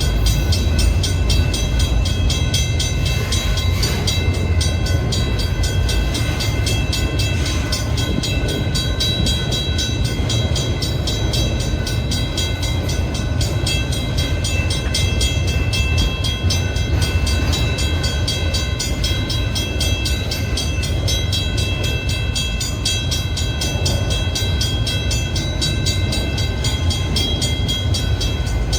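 Freight cars of a long manifest train rolling past, a steady low rumble with a thin, steady high whine above it.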